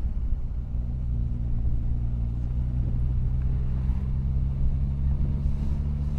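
Motorcycle engine running at a steady cruise on the road, its note settling to an even pitch about a second in.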